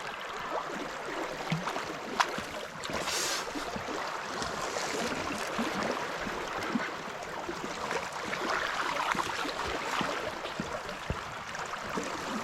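Steady rush of moving river water, with a few sharp clicks.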